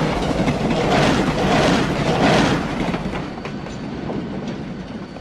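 A train running past on the tracks, its noise pulsing in a regular beat about every half second, loud at first and dropping off about three seconds in.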